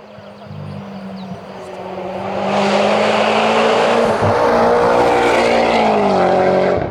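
Mitsubishi Lancer Evolution X MR's turbocharged four-cylinder engine at full throttle as the car approaches up the hill, getting steadily louder and passing close by. Its pitch drops near the end.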